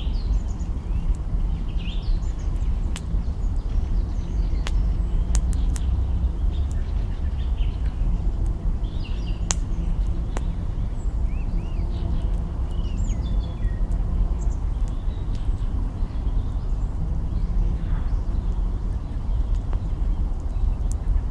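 Campfire burning, with scattered sharp crackles and pops from the branches over a steady low rumble. Small birds chirp briefly now and then.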